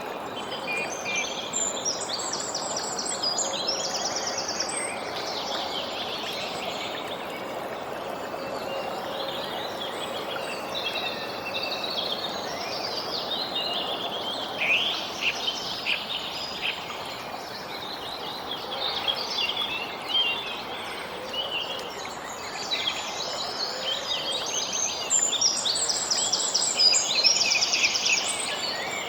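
Several birds singing and chirping, with fast high trills about a second in and again near the end, over a steady background hiss.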